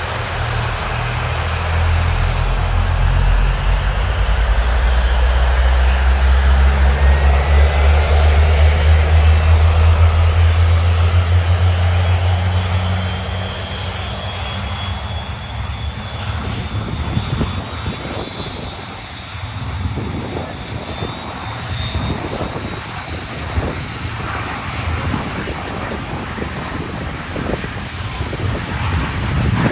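BAE Hawk T1 jets' turbofan engines starting up and running at ground idle. A low, steady rumble is strong for about the first thirteen seconds and then eases, under a high turbine whine that slides slowly in pitch.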